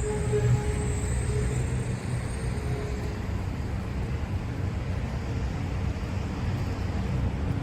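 Steady low rumble of city street traffic. Faint high tones fade out in the first second or so.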